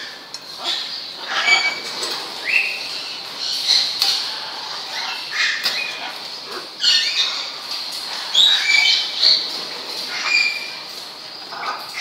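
Birds in an aviary giving short, high chirps and squeaks over and over, some rising or falling in pitch, with a few sharp clicks in between.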